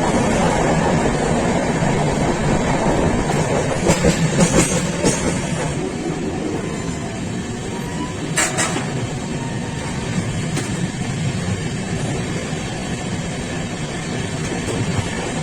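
Passenger train running along the track: a steady rumble of wheels on rails, with a few sharp clicks, the loudest about eight and a half seconds in.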